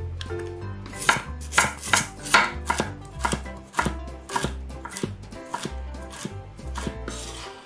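Knife chopping food on a cutting board: a series of sharp strokes, about two a second, over background music with a steady bass line.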